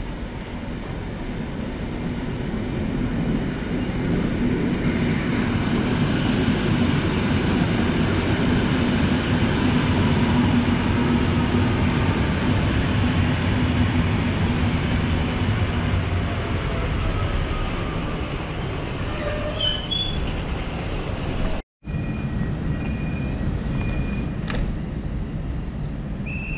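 EN57ALc electric multiple unit rolling into the platform: a steady rumble of wheels and running gear that swells as it comes alongside, with a faint falling whine as it slows and brakes squealing about 19 to 20 seconds in. It cuts off abruptly, and a second train scene follows with several short high beeps.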